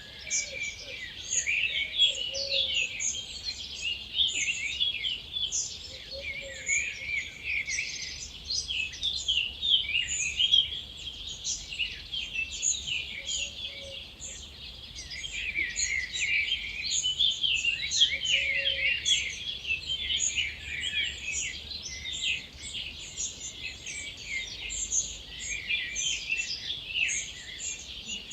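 Dawn chorus: many songbirds singing at once in a dense, continuous mix of chirps and trills, with a short lower call now and then.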